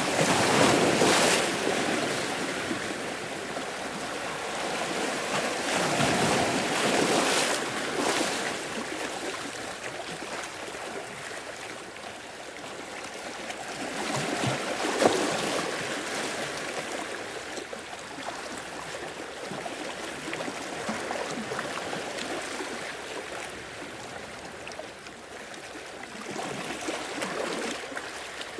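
Sea waves washing onto a beach, swelling and fading, with louder surges about a second in, around six to eight seconds, around fifteen seconds and near the end.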